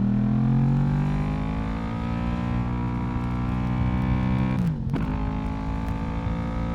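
Yamaha YZF-R1's inline-four engine and exhaust under way, its pitch climbing for the first two seconds as the bike accelerates, then holding steady. About four and a half seconds in, the revs dip sharply and come straight back, then run steady again.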